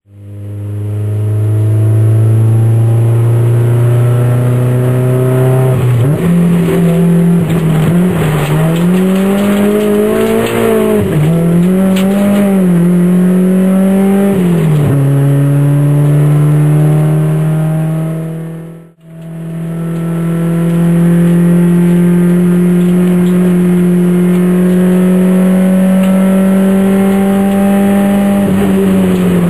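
Car engine heard from inside the cabin, pulling up a winding hill. Its pitch is steady at first, then rises and falls several times through the middle as the driver works the throttle and gears, then holds steady again. The sound fades out and back in briefly about two-thirds of the way through.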